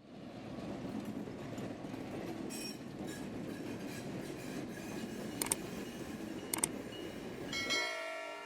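Train running on the rails: a steady rumble with a few sharp metallic clicks about two-thirds of the way through. Near the end the rumble stops and music with steady held tones comes in.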